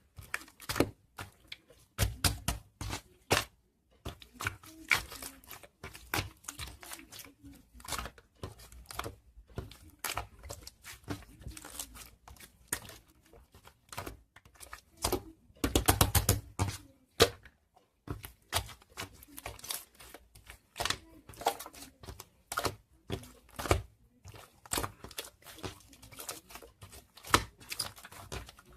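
Crunchy marbled slime being squeezed and stretched by hand, giving dense, irregular runs of crackling pops and clicks, with a heavier burst of crackles about fifteen seconds in.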